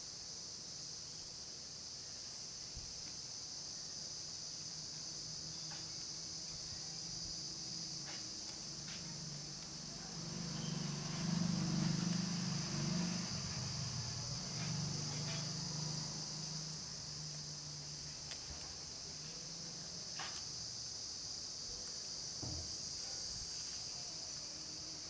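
A steady, high-pitched chorus of insects. About ten seconds in, a low hum swells for several seconds and then fades; it is the loudest sound, and its source is unclear. A few faint clicks are scattered through.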